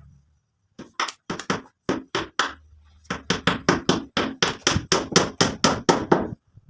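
Hammer blows in quick succession: a run of about eight strikes, a short pause, then a longer, steadier run of about sixteen at roughly four a second.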